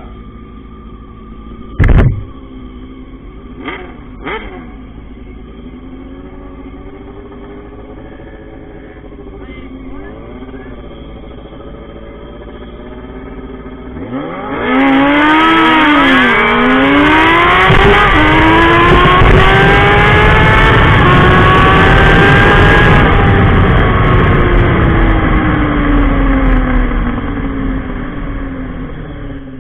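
Drag-racing motorcycle engines running and blipped at the line, with a sharp loud bang about 2 s in. About halfway through, a bike launches at full throttle, its pitch climbing and dropping back at each gear change, then the engine note falls away slowly near the end.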